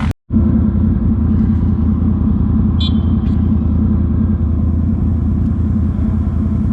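ATV engine running steadily at an even throttle, with no revving. The sound cuts out for a moment just after the start.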